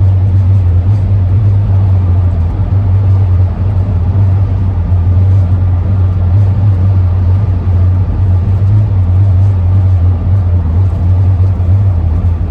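Cabin noise of a Ford E-350 van driving at speed: a steady wind and road rush under a strong, unbroken low drone, the howling that air over the roof rack makes.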